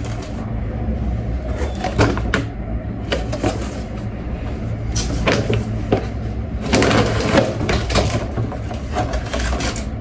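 Shopping items and their packaging being handled: bursts of rustling and light knocks, over a steady low hum.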